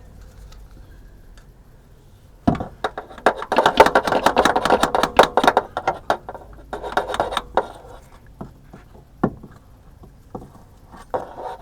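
Metal hand tools and parts clattering and clinking, a busy run of irregular knocks starting about two and a half seconds in and lasting a few seconds, then a few scattered knocks.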